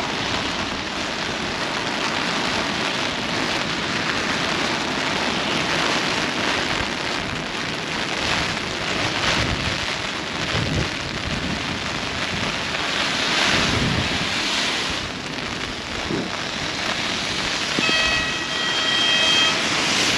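Heavy rain and gusting wind, with the gusts buffeting the microphone in surges. Near the end an electronic tone beeps in short pulses.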